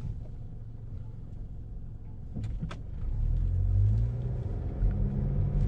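Car engine and road rumble heard from inside the cabin while driving, growing louder about halfway through, with two short clicks near the middle.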